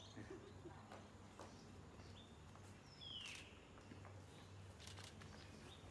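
Near silence, with a few faint bird chirps (one a short falling call about three seconds in) over a low steady hum and a few faint clicks.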